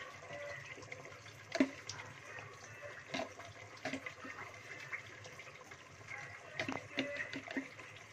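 A masala paste of onion, tomato, ginger and garlic bubbling and sizzling in hot oil in a pot, with a few short clicks and pops scattered through it.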